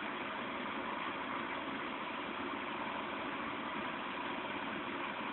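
Steady rain falling in a thunderstorm, an even hiss with no thunderclap.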